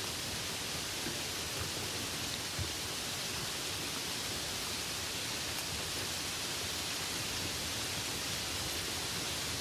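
Steady rainfall: an even hiss of rain falling, with a few faint soft drops or taps.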